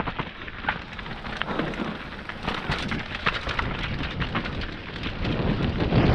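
Mountain bike rolling down a dirt forest trail: the tyres crackle and crunch over dirt, twigs and debris, with clicks and rattles from the bike. Wind rumble on the microphone eases off, then builds again near the end as the bike speeds up.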